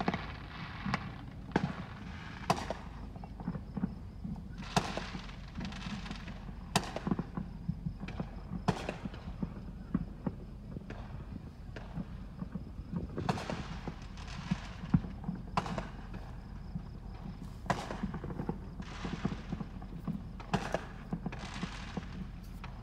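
Fireworks going off: irregular sharp bangs throughout, several followed by about a second of crackling hiss.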